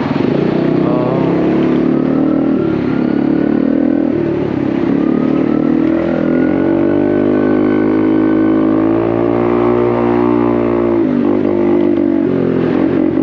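Honda Navi's small single-cylinder engine running through an aftermarket Vance & Hines exhaust while riding. Its pitch climbs steadily under throttle for several seconds, then drops back about two-thirds of the way in.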